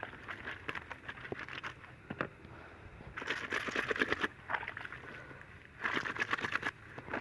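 Wet clothes being scrubbed and squeezed by hand in a bowl of soapy water: squelching, crackly splashing in several bursts, the longest about three seconds in.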